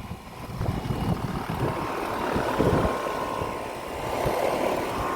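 Outdoor central air conditioner condenser unit running: a steady fan and compressor hum, with a faint even tone, and wind gusting on the microphone.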